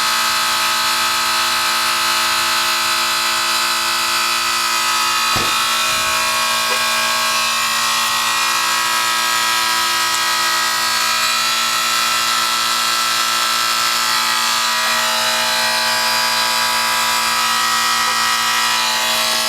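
2004 Carrier 3-ton heat pump with a reciprocating compressor running: a steady mechanical hum with a high hiss over it. A single short knock about five seconds in.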